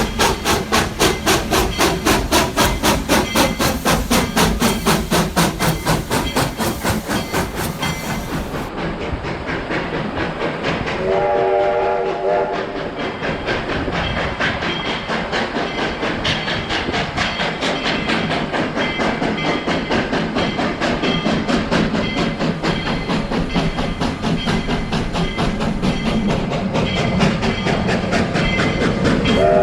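Narrow-gauge steam locomotive working along, its exhaust chuffing in a fast, even rhythm with steam hiss and wheels on the rails. About eleven seconds in, its whistle gives one short blast of several tones at once.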